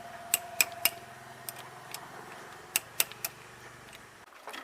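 Sharp metallic clicks from hand tools at work while a replacement battery is fitted, in two quick sets of three: one near the start and one past the middle.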